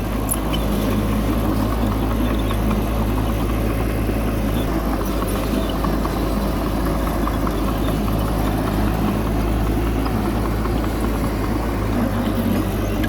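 A bulldozer's diesel engine running steadily, a low even drone with no clear change in pitch.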